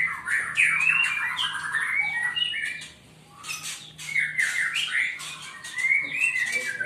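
Caged songbirds chirping and squawking, many short calls overlapping, with a brief lull about three seconds in.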